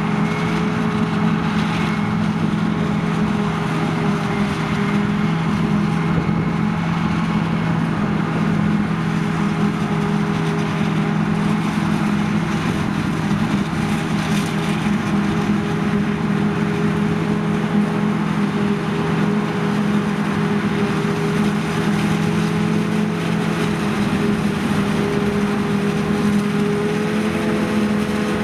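Large diesel engine of farm machinery running steadily at constant speed, a continuous even hum; one of its low tones fades out near the end.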